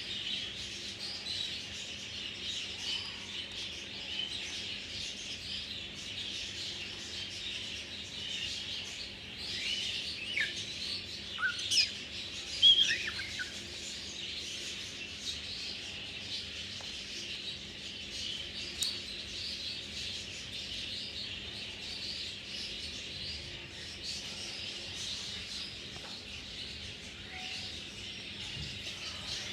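Parrots chirping continuously, with a few louder, falling calls about ten to thirteen seconds in.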